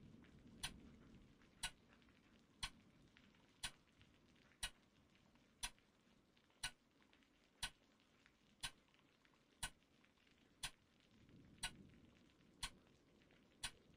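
Clock ticking steadily, about once a second, over a faint low rumble that swells near the end.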